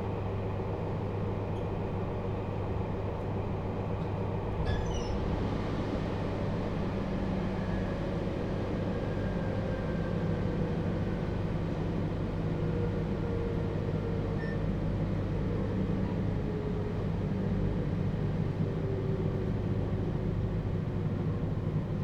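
JR Hokkaido 721-series train heard from inside the motor car, with its Toshiba GTO inverter tones gliding down in pitch over rail and motor noise as the train slows for a station. A brief click comes a few seconds in.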